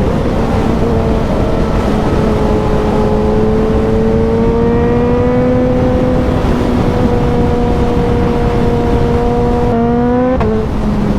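Suzuki motorcycle engine under way, its note rising slowly as the bike accelerates and then holding steady, with a quick break and jump in the note near the end as it changes gear. Wind rushes over the microphone throughout.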